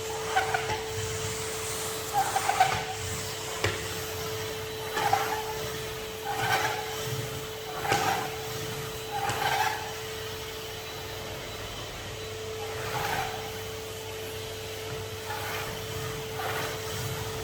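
Henry HVR200 620 W canister vacuum cleaner running with a steady motor whine. Its nozzle rubs back and forth over a surface in strokes about every second and a half, with a break of a few seconds past the middle.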